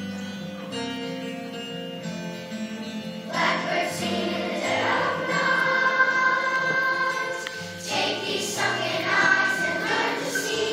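Choral music: a choir singing long held notes, which swell louder and fuller about three seconds in.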